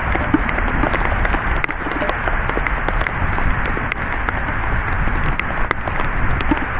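Heavy thunderstorm rain falling steadily, a dense hiss scattered with many small ticks of drops striking close by.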